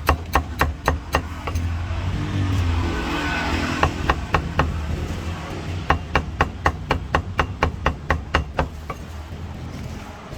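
A cleaver chopping roast meat on a chopping block in quick runs of strikes, about five a second, with the longest run near the end. Under it is a steady low traffic rumble that swells briefly in a pause between the runs.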